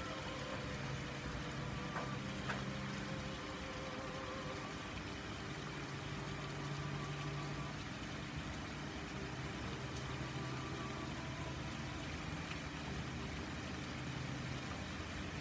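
Steady rain falling outside a window, an even hiss, with soft sustained low tones underneath that shift every few seconds.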